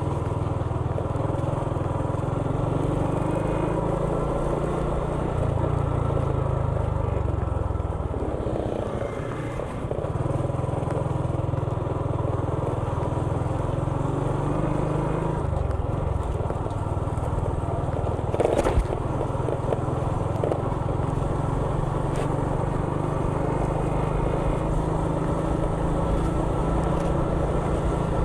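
Motorcycle engine running steadily with road noise as it rides along, with a single sharp click about two-thirds of the way through.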